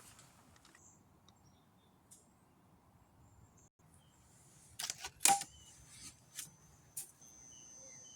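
A few sharp clicks and knocks of heat lamps being handled and set up, the loudest about five seconds in. A faint steady high-pitched whine starts near the end.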